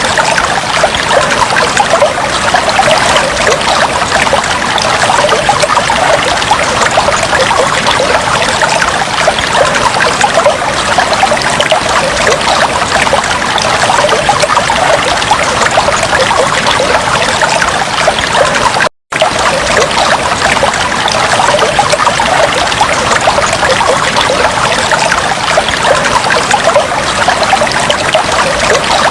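Aquarium water trickling and bubbling steadily. It cuts out for an instant about two-thirds of the way through.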